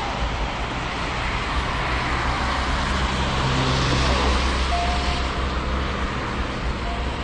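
Street traffic: a motor vehicle passes close by, its engine hum swelling about three to four seconds in and then fading, over a steady wash of road noise.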